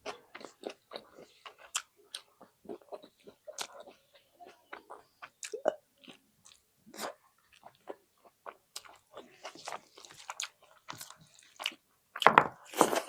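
Close-miked mouth sounds of someone eating egg with rice: chewing and lip smacks in quick, short clicks, with a louder, longer burst near the end.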